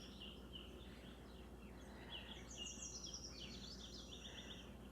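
Faint birds chirping, with short repeated trills that grow busier about halfway through, over a low steady background hum.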